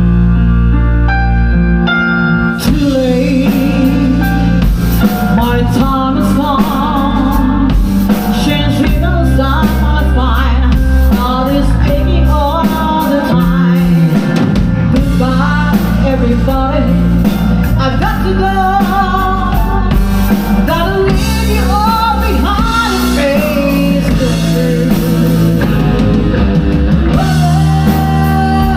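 Live rock band playing: held keyboard chords, then drums, bass and guitar come in together about two and a half seconds in, with a lead voice singing over the band.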